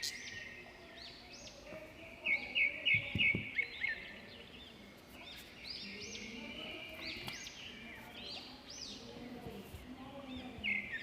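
Several budgerigars chirping and chattering in quick, overlapping high chirps, with a louder run of sharp repeated chirps about two to three seconds in.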